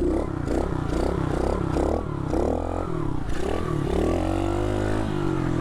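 SSR 110cc pit bike's small single-cylinder four-stroke engine ridden hard, revving up and down in quick repeated swells, then holding a steadier note that climbs slowly near the end.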